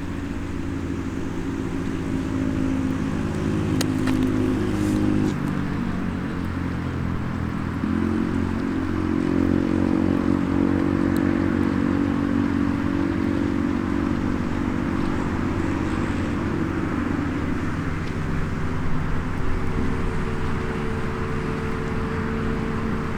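A nearby engine runs with a steady hum, shifting pitch a couple of times, over a constant background wash. There are a couple of sharp crackles from the small wood fire.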